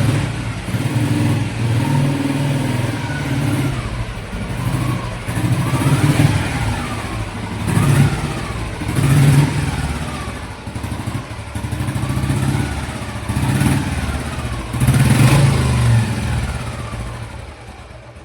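Old cast-iron Royal Enfield Bullet 350's single-cylinder engine running and being blipped over and over. The revs rise and fall about every second and a half.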